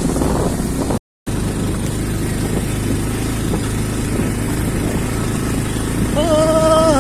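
Motorcycle engine running steadily at low speed. The sound drops out completely for a moment about a second in.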